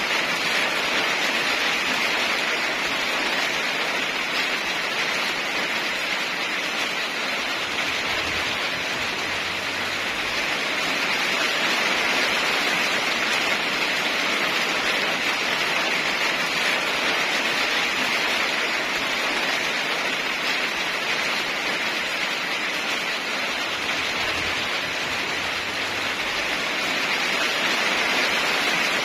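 Steady heavy rain: an even, continuous hiss with no thunder.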